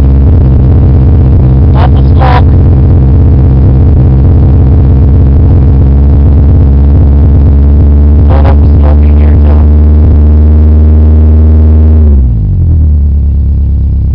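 1987 Ford Escort's Mazda diesel engine running at high revs just after a cold start, its throttle held down until all cylinders are firing. About twelve seconds in the revs drop smoothly toward idle. Short sharp noises break in twice, about two seconds and about eight seconds in.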